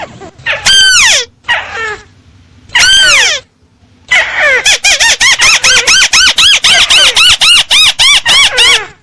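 Recorded crake (tikusan) call played loud as a bird lure: two long falling notes in the first few seconds, then after a short pause a fast run of short rising-and-falling notes, about four a second.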